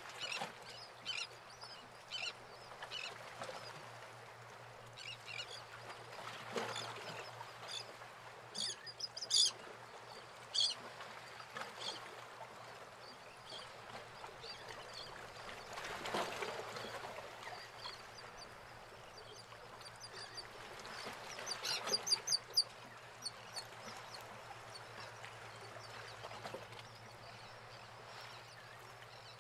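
Birds calling in short, high calls scattered throughout, bunched around ten seconds in and again about twenty-two seconds in. Beneath them is a soft rushing that swells a few times.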